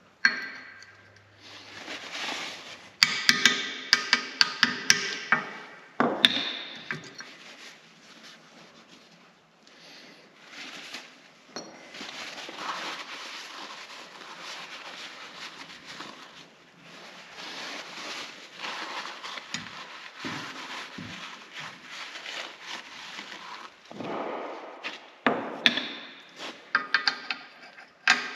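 Hammer strikes on steel, driving chilled bushings down into a skid steer's attachment plate: a quick run of ringing metallic blows a few seconds in and another near the end, with quieter handling noise between them.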